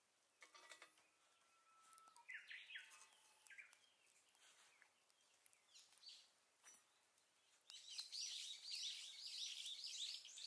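A bird chirping: a few scattered chirps, then a fast run of repeated rising notes in the last few seconds, the loudest part. Under it, faint sharp clicks that fit a small wood fire crackling in a solo fire grill.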